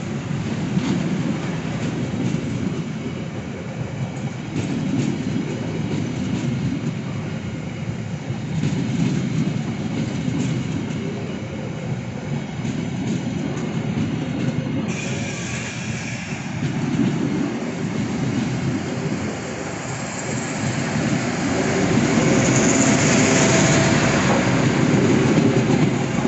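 Passenger coaches rolling past at close range: a steady rumble of steel wheels on rail with a rhythmic clickety-clack over the joints. A high-pitched wheel squeal joins about halfway through, and the sound is loudest near the end as the last coach passes.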